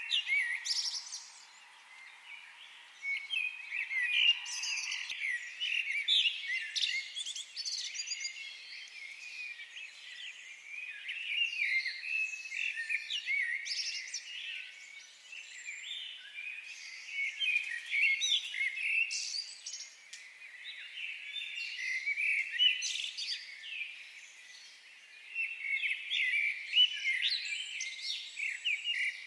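Many songbirds chirping and trilling at once in a dense forest chorus, swelling and easing in waves every few seconds.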